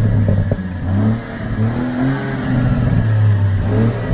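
Car engine running hard under acceleration, heard from inside the cabin, its pitch climbing in short rising sweeps.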